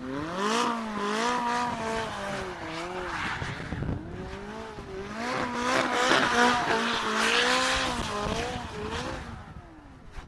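A car engine revving hard during a drift, its pitch swinging up and down repeatedly, with tyres screeching. It comes in two passages, the second starting about five seconds in, and fades near the end.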